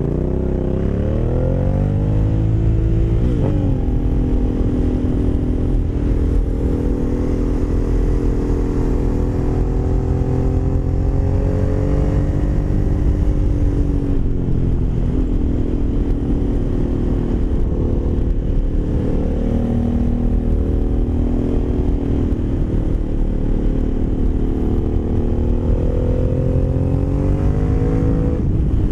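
Aprilia Caponord 1200's V-twin engine through a GPR Furore carbon slip-on exhaust, under way. The engine note climbs over the first couple of seconds, then holds fairly steady, and climbs again near the end.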